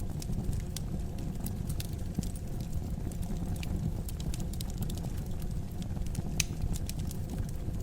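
Wood fire burning in a fireplace: a steady low rumble of the flames with irregular sharp crackles and pops from the burning logs, one louder pop a little after six seconds in.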